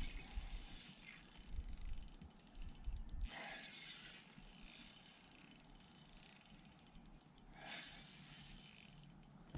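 Fishing reel's drag clicking rapidly as a hooked striped bass pulls line off against it. It comes in two runs: a longer one at first and a short one near the end.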